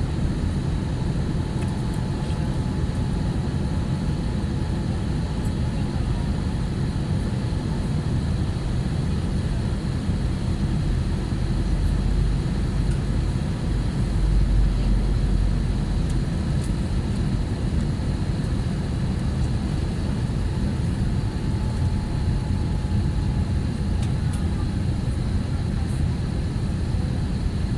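Steady jet airliner cabin noise from a Wizz Air Airbus A320-family jet in flight: a deep rumble of engines and airflow with a faint steady whine, swelling in the low rumble about halfway through.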